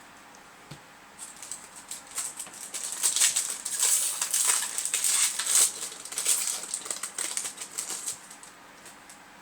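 Rapid crackling rustle of Yu-Gi-Oh! trading cards and their booster packs being handled, starting about a second in and stopping about eight seconds in, loudest in the middle.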